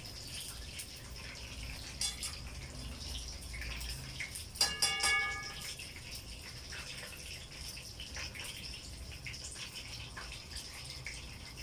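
Breaded chicken cutlets sizzling and crackling as they fry in hot oil in a pan. About halfway through, a metallic clink rings briefly, the loudest sound.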